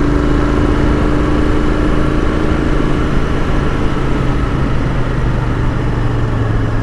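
Royal Enfield Continental GT 650's 648 cc parallel-twin engine running at a steady riding speed, with wind noise underneath.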